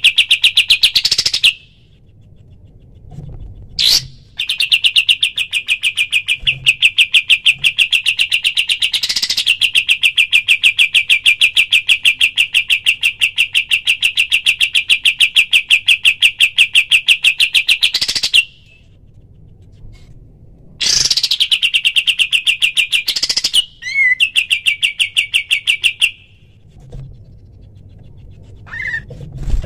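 Kapas tembak songbird singing its rapid-fire trill: a fast, even rattle of notes held in long bouts, one lasting well over ten seconds, with short pauses between them. A few brief chirps come near the end.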